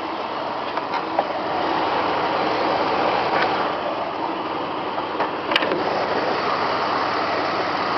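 1996 Jeep Grand Cherokee's 4.0-litre inline-six idling steadily, heard with the hood open. A few light clicks come in over it.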